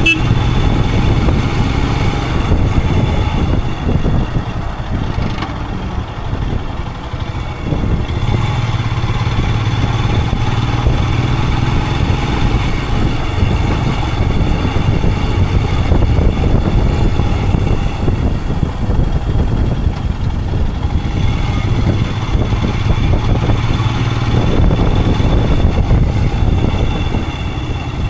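Royal Enfield Himalayan 411's single-cylinder engine running while the bike is ridden. The engine note eases off about four seconds in, picks up again around eight seconds, and eases briefly once more near the end.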